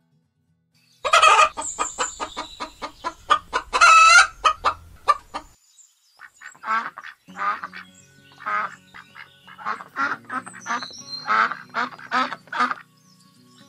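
White domestic ducks quacking, starting about a second in: a fast run of quacks, then after a short pause a string of separate quacks.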